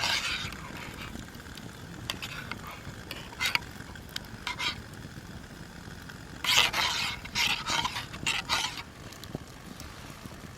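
Acacia-wood campfire crackling, with sharp pops and short bursts of hissing; the longest run of hiss and crackle comes around two-thirds of the way through.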